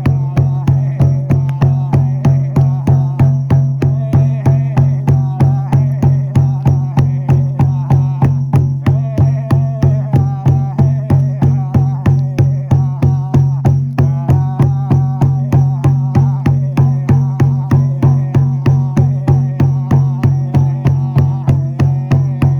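Shaman's frame drum (buben) beaten in a steady, even rhythm, about three strokes a second, each stroke with a deep boom, with a wavering melodic line running over the beat.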